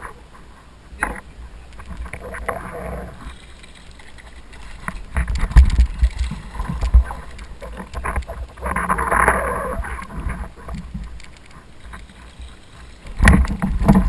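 Water sloshing around a kayak, with uneven gusts of wind on the microphone, scattered small clicks and a sharp knock near the end.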